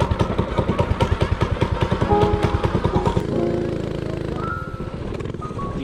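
Mini bike's small engine just started, running with an even chugging pulse of about seven beats a second, then settling into a smoother, quieter idle about three seconds in.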